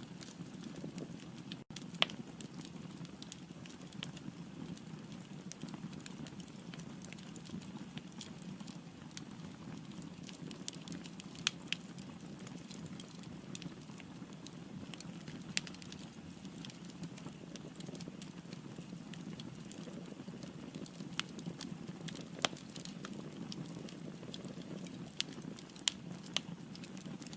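Firewood burning in a fireplace: a steady low rush of flame with scattered sharp crackles and pops, a handful of them louder.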